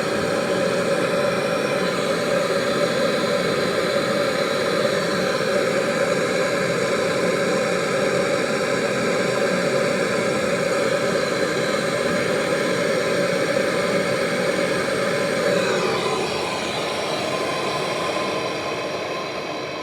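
Steady whirring hum of a motor-driven machine running. About three-quarters of the way through, its tone changes and it gets a little quieter.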